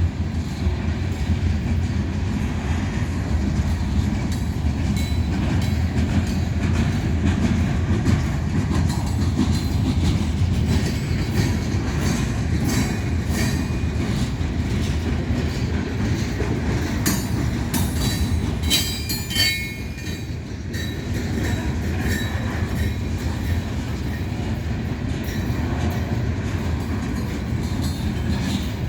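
Freight train cars rolling past on jointed rail with a steady rumble and repeated wheel clicks. Brief high-pitched wheel squeals come in about two-thirds of the way through.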